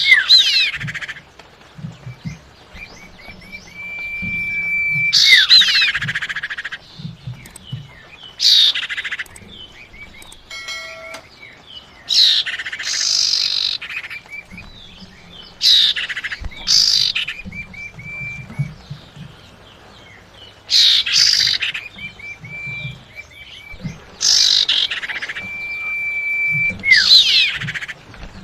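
Female common iora (cipau) calling, as used to lure a male: a long level whistle followed by a burst of rapid, harsh falling notes, the phrase repeating every few seconds.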